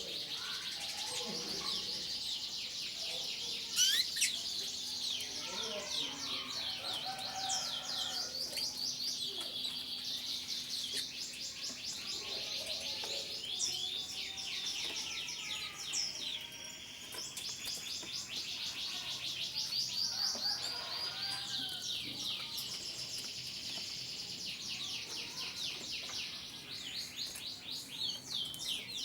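Many domestic canaries singing together: a dense, continuous chorus of fast, high trills and chirps.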